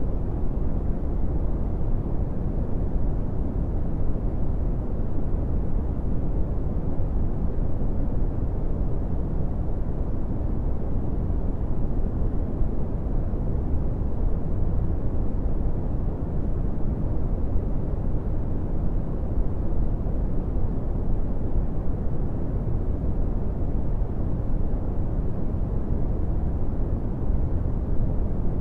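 Brown noise: a steady, deep rumbling hiss with most of its energy in the low frequencies and little above about 2 kHz, unchanging throughout.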